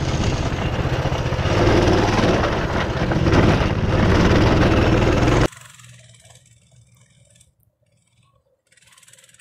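Small engine running hard close to the microphone. It cuts off abruptly about five and a half seconds in, leaving only faint background sound.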